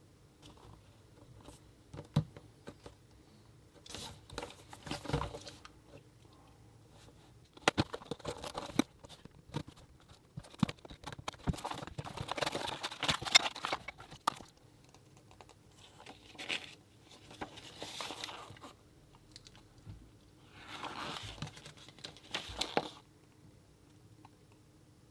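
Packaging being handled and opened by hand: several bursts of rustling and crinkling of cardboard and plastic, with sharp clicks and knocks among them and short pauses between.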